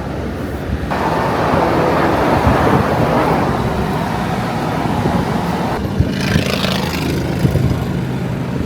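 Car engine and road noise while driving: a steady low hum with a rush of noise that grows louder about a second in.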